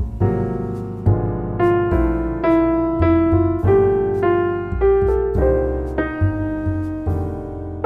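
Background piano music: a gentle melody of struck notes, each fading after it sounds, over low bass notes.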